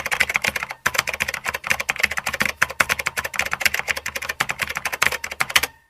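Rapid typing on a computer keyboard: a fast, dense run of clicks that stops abruptly near the end.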